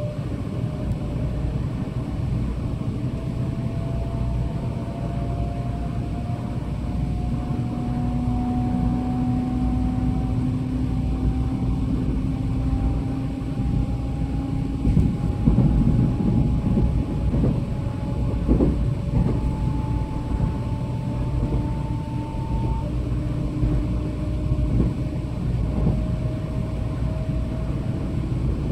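Electric train running and accelerating, heard from aboard: its motor whine rises slowly and steadily in pitch over a steady low rumble, with a few louder knocks from the running gear around the middle.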